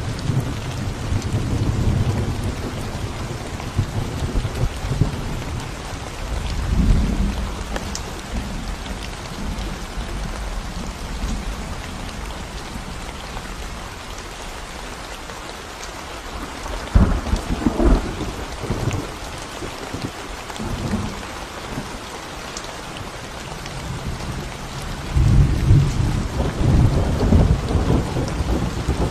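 Steady rain falling on a concrete road and the plants around it, with low rumbles swelling and fading several times, strongest about halfway through and near the end.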